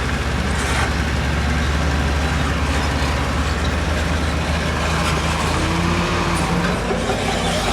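Heavy earthmoving machinery's diesel engine running steadily, with a dense mechanical rumble over it.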